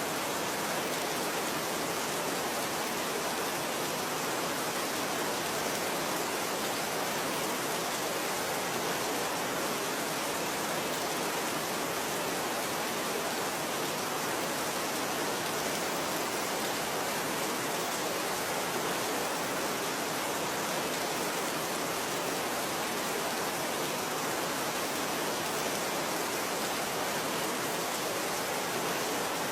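Steady rain: an even, unchanging hiss with no separate drops or thunder standing out.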